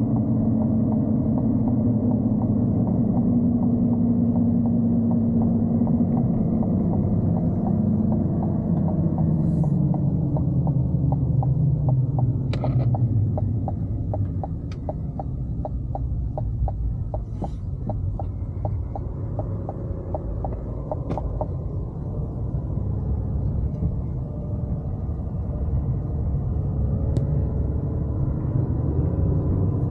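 GMC Denali pickup driving, heard from inside the cab: a steady engine and road rumble whose engine note falls in pitch over the first dozen seconds as the truck slows. A regular ticking, about two or three a second, runs through the middle for about ten seconds, with a few sharper clicks.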